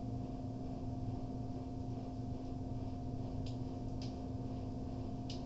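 Steady low hum with a few faint light clicks in the second half.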